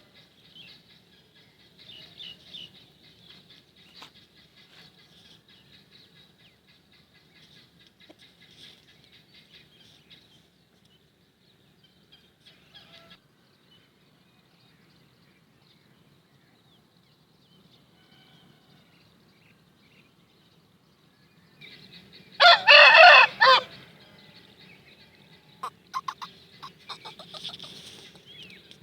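Aseel rooster crowing once about three-quarters of the way in: a loud, pitched call lasting about a second. Before it there are faint, scattered clucks and chirps, and a few short calls follow.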